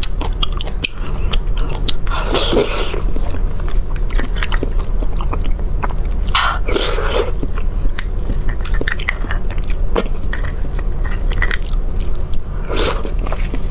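Close-miked wet chewing and mouth clicks as soft beef bone marrow is eaten, with a few louder patches of mouth sounds as fresh spoonfuls go in.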